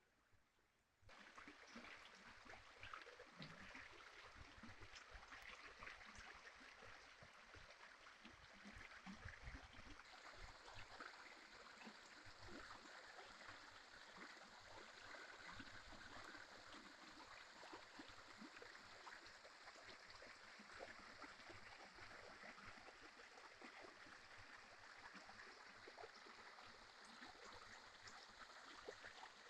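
Faint, steady babbling of a small stream, starting abruptly about a second in.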